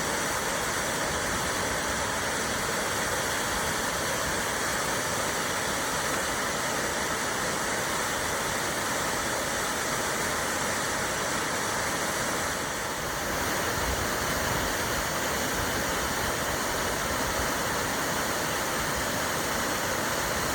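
Waterfall rushing steadily, a constant, even roar of falling water.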